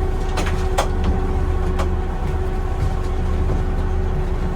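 A boat's motor running steadily with a low, even drone, and a few light knocks about half a second, one second and two seconds in.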